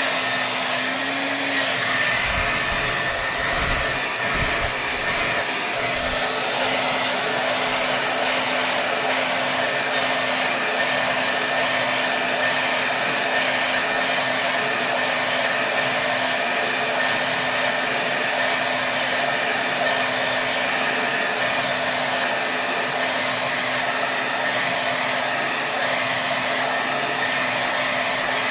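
Hair dryer running steadily on its maximum setting: a dense rush of air over a steady motor hum. A few brief low thuds come in the first few seconds.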